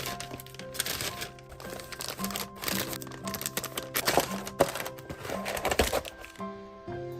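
Packaging being handled while packing parcels: paper and plastic wrapping crinkling and rustling in irregular bursts, busiest about four to six seconds in, over soft background music with held notes.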